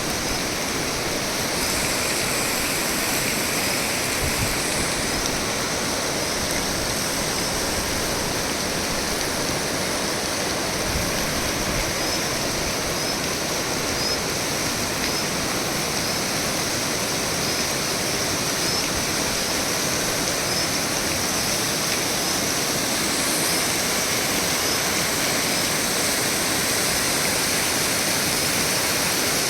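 Mountain waterfall: water pouring down a hillside, a steady, unbroken rush.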